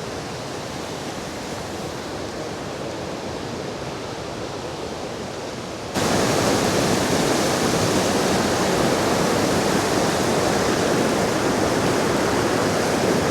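Steady rushing of the Sgwd Isaf Clun-Gwyn waterfall, jumping abruptly louder and fuller about six seconds in.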